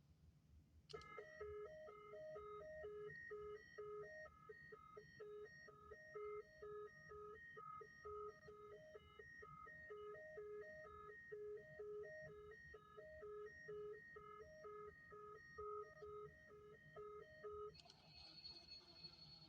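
A quiet, simple chime-like tune of short notes in a steady beat starts about a second in and stops a couple of seconds before the end.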